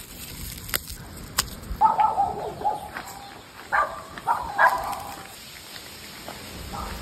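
A bird calling in two short bouts of repeated notes, about two seconds in and again about four seconds in, with a couple of sharp clicks before the first bout.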